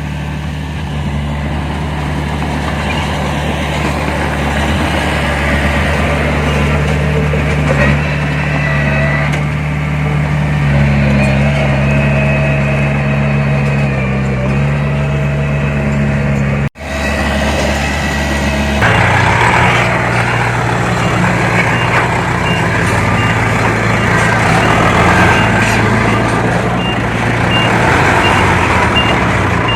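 Heavy diesel engines of a bulldozer and dump truck running steadily. About halfway through, the sound cuts out for an instant and comes back as a rougher, noisier engine note. Near the end a vehicle's reversing alarm beeps at a steady pace, about two beeps a second.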